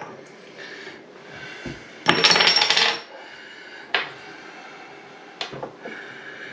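Small metal parts and tools clinking and rattling, with a loud, rapid rattling clatter lasting about a second, then two sharp clicks. These are faucet parts being handled during the repair.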